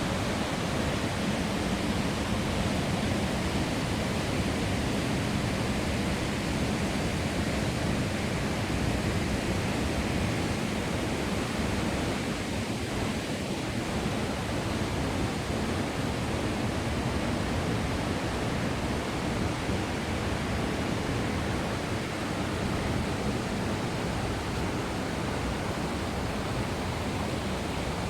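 Kozjak waterfall's water falling, a steady, even rushing that holds unchanged throughout.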